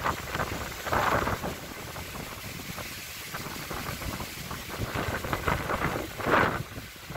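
Strong gusty windstorm wind rushing, swelling in gusts about a second in and again just after six seconds, with a low rumble of wind buffeting the microphone.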